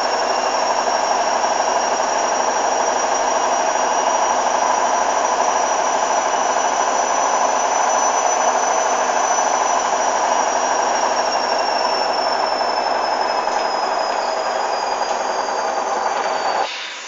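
Hoover DYN 8144 D washing machine running loud, with a steady high-pitched motor whine over a dense mechanical rumble. The whine slowly drops in pitch during the second half, and the sound cuts off abruptly near the end.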